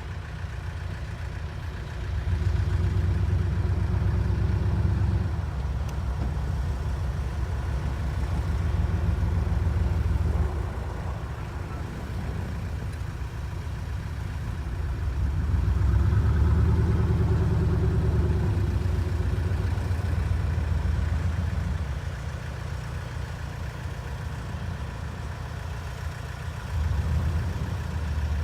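1989 Chevrolet Silverado 2500 truck's engine running at idle, with its speed raised and held for a few seconds at a time, four times.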